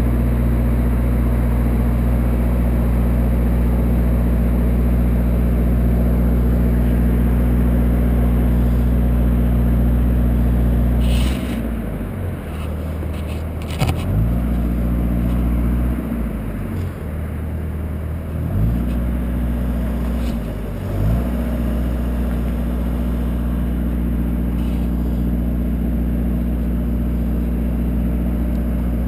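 An engine running steadily, its pitch shifting several times about halfway through, with a few sharp clicks as it changes.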